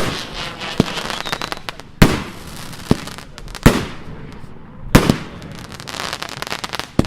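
Fireworks going off: five loud bangs roughly a second and a half apart, each followed by a crackling fizz, with smaller cracks in between.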